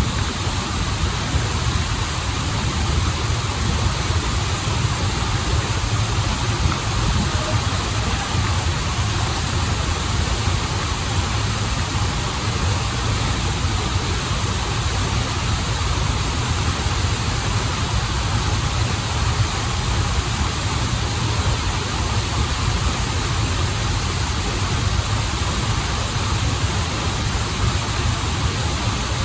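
Waterfall and flowing stream water rushing steadily, with a deep low rumble under the splashing hiss.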